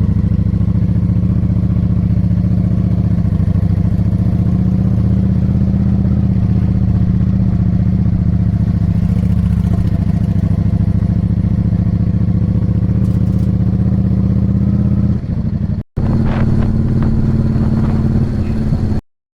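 Yamaha V Star 650's air-cooled V-twin engine running at a steady speed while riding, its pitch holding even. The sound breaks off briefly about three-quarters of the way through and picks up again.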